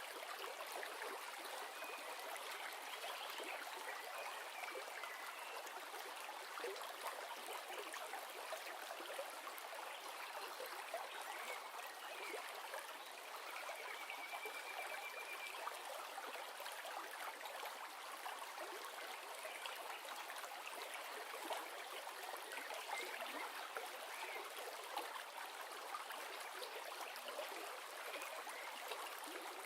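River water flowing in a steady, even rush, with a few faint high chirps, including a short trill about halfway through.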